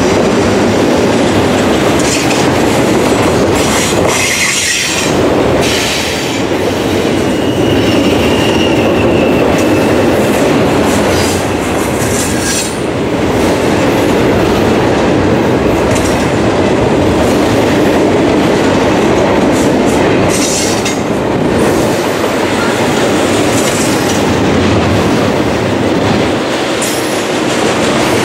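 Double-stack intermodal well cars of a long freight train rolling past close by: a steady rumble of steel wheels on rail with rattling and clanking. A brief high wheel squeal comes about eight seconds in.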